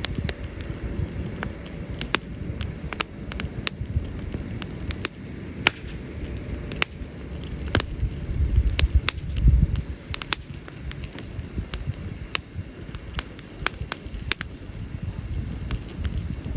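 Wood campfire crackling, with sharp irregular pops of burning wood several times a second over a low rumble that swells briefly about nine seconds in.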